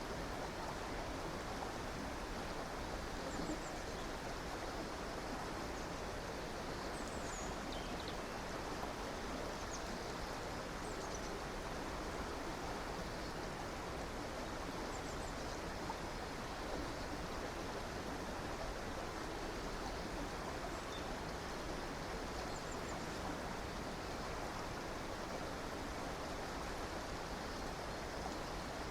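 River water flowing steadily over rocks, with a few faint, brief high bird chirps now and then.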